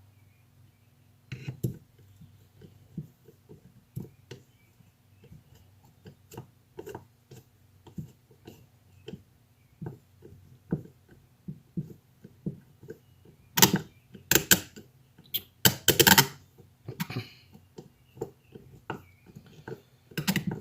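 Small metal carburetor parts being handled on a workbench: light irregular clicks and taps, with a run of louder knocks and scrapes about two-thirds of the way through, over a faint steady hum.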